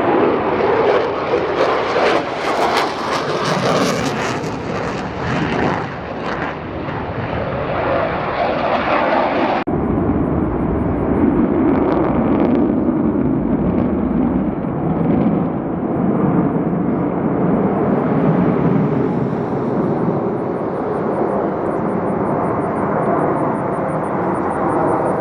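Jet aircraft flying by, a loud continuous roar with no clear engine tone; the highest part of the sound drops away abruptly about ten seconds in.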